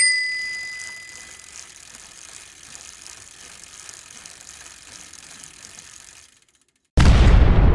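A single bell-like ding that rings out over about a second and a half, over a faint, steady mechanical ratcheting. The ratcheting cuts to silence near the end, and a sudden loud burst of noise follows and slowly dies away.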